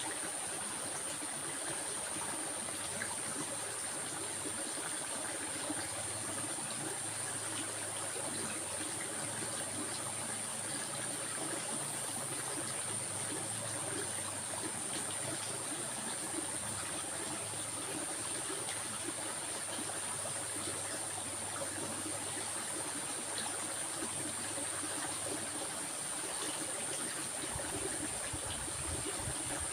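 Stream water flowing steadily, with a constant high-pitched whine running over it.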